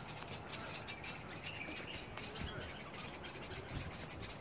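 Birds chirping: a quick series of short, high calls, several a second.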